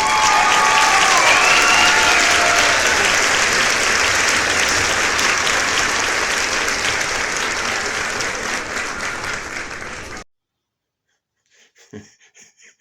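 Crowd applauding and cheering, with a few whoops in the first seconds, cutting off suddenly about ten seconds in; a few faint clicks follow near the end.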